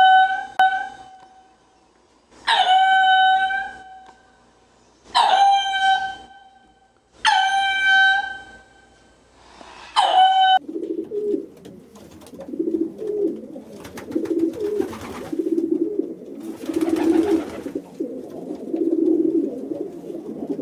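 Animal calls: five loud, clear-pitched calls, each about a second long and about two and a half seconds apart. Then a softer, low, pulsing call repeats over about ten seconds.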